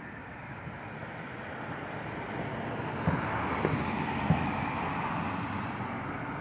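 Distant fireworks shells bursting as a few dull thumps about three to four and a half seconds in, over a rushing noise of a vehicle passing that swells and fades.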